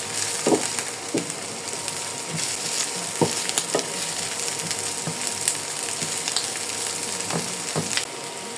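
Chopped vegetables sizzling as they fry in hot oil in a pot, browning, with a steady hiss and now and then the short click or scrape of a stirring utensil.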